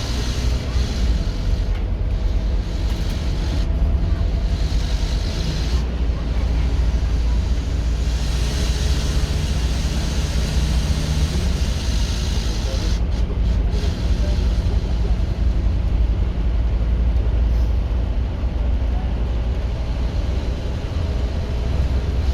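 Scania K230UB OmniLink bus's five-cylinder diesel engine running under load, a loud, steady deep drone whose note shifts now and then as the bus pulls away and changes speed.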